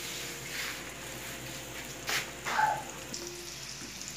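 Breaded beef tripe pieces frying in hot oil in a pan, a steady sizzle. A sharp click about two seconds in and a short clink just after come from handling around the pan.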